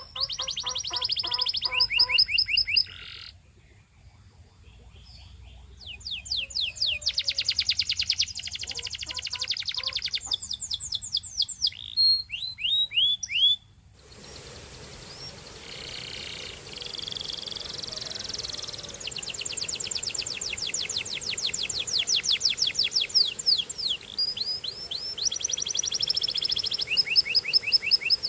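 Canary singing: fast trills of rapidly repeated falling notes, in phrases with short pauses between them. A steady background hiss comes in about halfway through.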